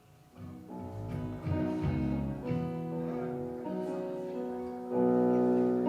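Guitar chords strummed and left to ring between songs, with a louder chord about five seconds in.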